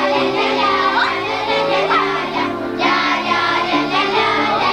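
Children's chastushki: a child singing held notes over music accompaniment.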